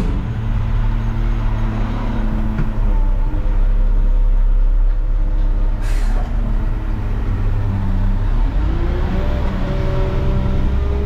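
Front-loader garbage truck engine running loud and steady, revved to drive the hydraulics, its pitch rising about three-quarters of the way through. A single sharp knock about six seconds in.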